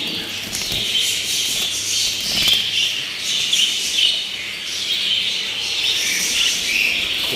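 A flock of budgerigars chattering and chirping continuously, with wings flapping now and then as the birds are handled.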